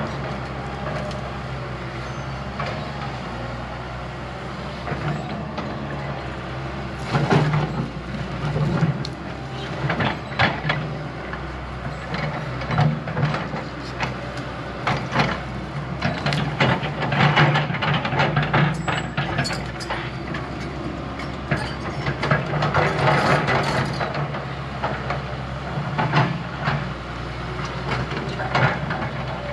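Heavy diesel earthmoving machine running steadily. From about seven seconds in there are repeated knocks and clatter, with stretches where the work gets louder.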